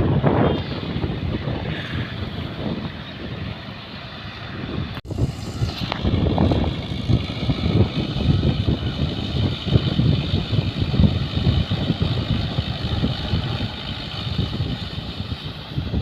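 Farm tractor engine running, with a brief break about five seconds in.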